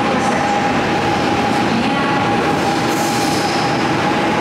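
Commuter train moving along an underground station platform: a loud, steady rumble with a high steady whine, and a hiss about three seconds in.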